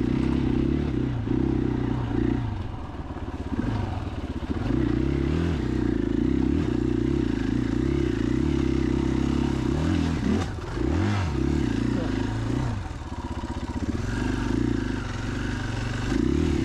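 2021 KTM 500 EXC-F's single-cylinder four-stroke engine running under way on a dirt trail, the throttle rolled off and back on several times, so the engine note drops and revs back up, most clearly a few seconds in and again around the middle.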